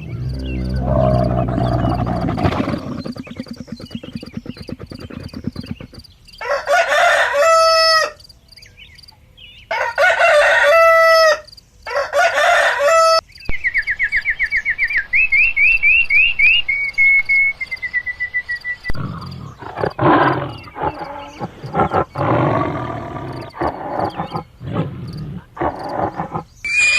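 A run of animal calls: a low growl at the start, then a rooster crowing three times, followed by a fast high trill and a rapid series of short calls.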